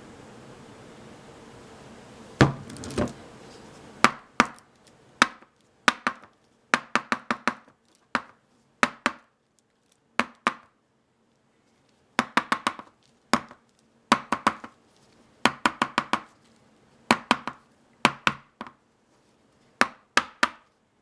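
Repeated sharp knocks and taps of hard objects, coming irregularly in quick clusters of one to four; a steady hiss underneath stops about four seconds in.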